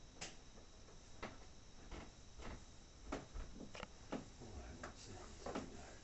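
Faint, irregular clicks and light knocks, about a dozen of them spread unevenly, like small handling noises.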